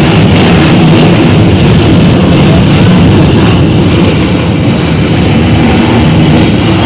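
Many trail-vehicle engines running loudly together, with revving that rises and falls.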